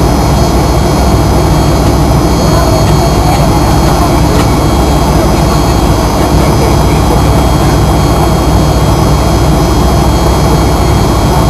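Fokker 100's rear-mounted Rolls-Royce Tay turbofans running steadily, heard inside the cabin as a constant low rumble with a high, steady turbine whine.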